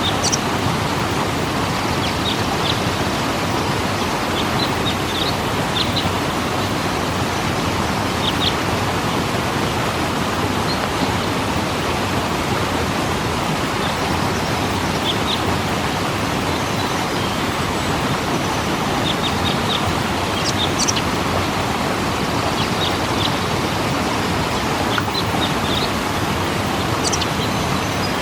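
Waterfall rushing steadily. Short high bird chirps come in small clusters every few seconds.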